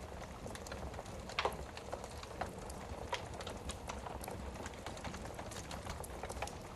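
Wood fire burning in a fireplace, crackling with irregular sharp pops over a low steady rumble and hiss; one louder pop comes about a second and a half in.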